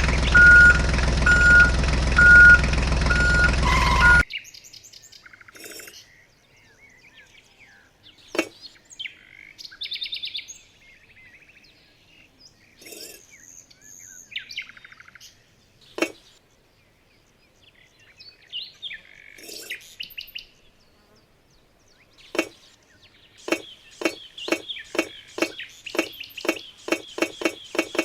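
Music with a repeating beep, cut off about four seconds in. Then birds chirping, with a few single sharp clicks. Near the end comes a run of quick, even taps, about three or four a second.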